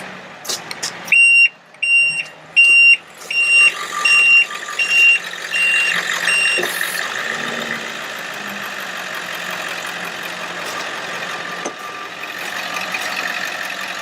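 Outrigger motion alarm on a Ford F550 Altec bucket truck beeping about nine times, roughly one and a half beeps a second, then stopping a little past the middle. Underneath, the engine and PTO-driven hydraulic pump run steadily.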